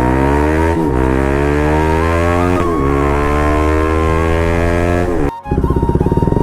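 Bajaj Pulsar RS200 single-cylinder engine accelerating hard through the gears on an exhaust with its dB killer removed: the pitch climbs, drops at two upshifts and climbs again. It cuts off abruptly about five seconds in, followed by a different, rapidly pulsing sound.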